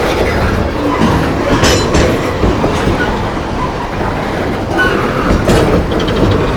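Long freight train's cars rolling past loudly, steel wheels clattering over the rail joints, with a few brief clanks and squeals mixed in.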